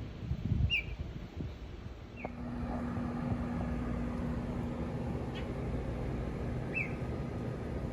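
Baby bird giving short, high chirps, each falling in pitch, a few seconds apart. A steady low hum comes in about two seconds in.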